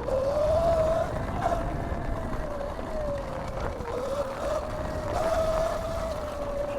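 Electric motor whine of a 2019 Sur-Ron electric dirt bike being ridden, its pitch wavering gently up and down with the throttle, over a low rumble.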